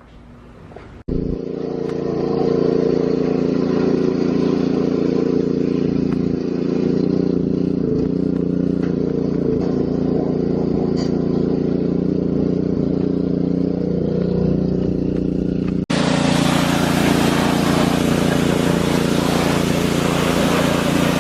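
A motor vehicle's engine idling steadily. It cuts in abruptly about a second in, and near the end a louder hiss joins it.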